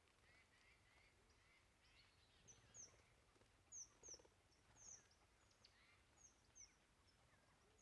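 Faint small songbirds calling: short, high chips repeated irregularly from about two and a half seconds in, with softer twittering lower down and one brief low call about four seconds in.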